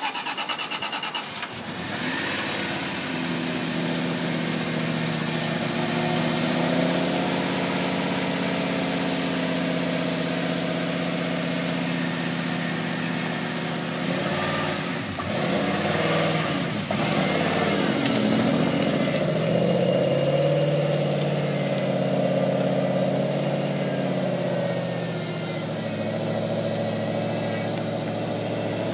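Aston Martin Vantage race car engine cranked on the starter and catching within the first two seconds, then idling steadily. It is revved a few times around the middle, and near the end it runs at a higher, varying pitch as the car pulls away.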